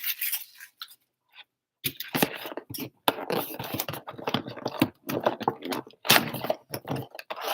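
Cardboard card box and wrapped trading-card packs being handled, making irregular scraping, rustling and light tapping. There is a short near-silent pause about a second in.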